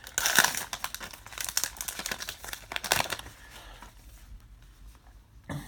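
Baseball card pack wrapper being torn open and crinkled, a dense crackle for about three seconds, then quieter rustling as the cards are handled.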